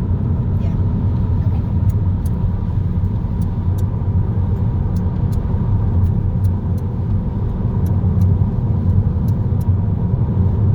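Steady road noise inside a car driving at highway speed: a continuous low rumble of tyres and engine, with scattered light ticks.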